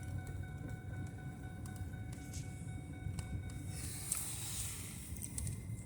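Inside a car's cabin, driving slowly on a snow-covered road: a low, steady engine and road rumble, with a faint hiss swelling about four seconds in.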